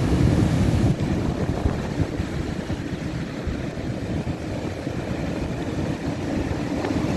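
Storm surf: a steady roar of breaking waves, a little louder in the first second, with wind buffeting the microphone.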